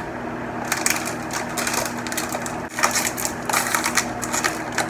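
Crunching and chewing of a crunchy snack close to the microphone: a run of irregular short crackly crunches.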